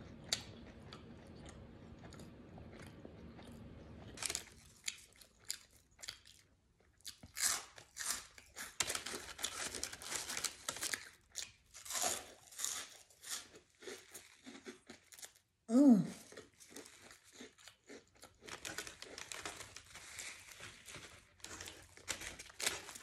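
Close-up crunching and chewing of Tom's hot fries, in irregular crisp bites that grow louder and busier from about seven seconds in. A short hum from the eater comes about two-thirds of the way through.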